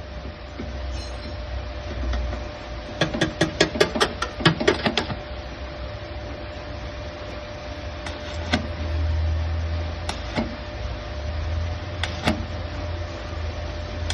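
A quick run of sharp knocks, several a second for about two seconds, then single knocks every couple of seconds, over a steady hum and a low rumble.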